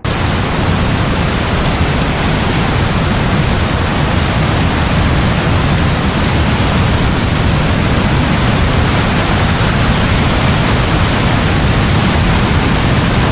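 Heavy rain pouring down, a dense steady hiss that cuts in suddenly and holds at an even level, with no thunder.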